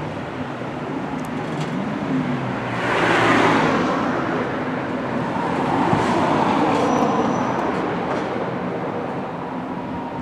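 Street traffic: vehicles driving past, one swelling by about three seconds in and another around six to seven seconds in, over a steady low hum.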